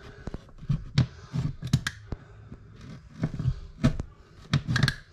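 Thin 3/8-inch sheetrock being cut out by hand with a small hand tool: irregular scraping stabs, cracks and knocks as the blade works through the board.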